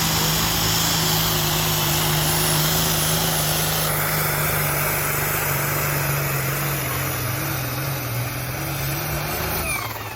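Diesel engine of a pulling truck or tractor at full throttle under load against the pulling sled. Its note sags slightly, then it backs off and drops away just before the end.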